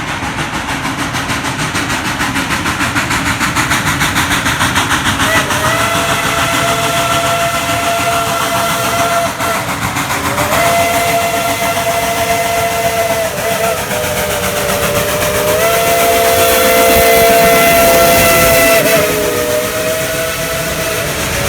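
Steam locomotive No. 190 working with its exhaust chuffing, then its White Pass chime whistle sounding from about five seconds in. The whistle gives a series of long blasts whose chord shifts between a higher and a lower voicing as the valve is worked.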